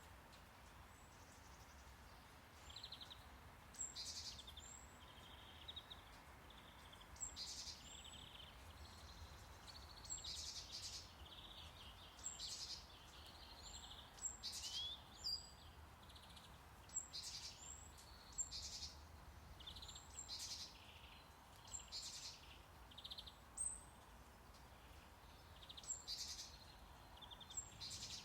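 Faint birdsong: many short, high chirps and calls from several birds, spaced irregularly throughout, over a steady low brown-noise hiss.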